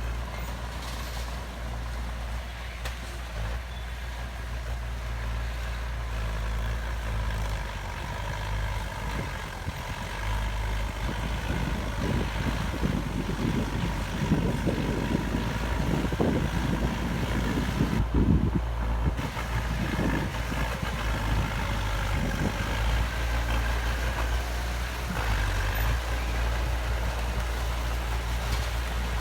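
Heavy diesel construction machinery running steadily, with a stretch of louder, rougher rumbling and clatter through the middle.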